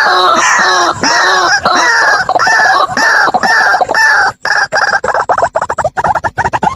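White-breasted waterhen (ruak-ruak) calling: a loud run of repeated arched calls, about two to three a second. About four seconds in, it breaks into a faster stutter of short notes.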